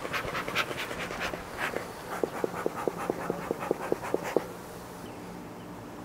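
Rapid, rhythmic panting at about five breaths a second that dies away after about four seconds, over a faint steady hum of honey bees.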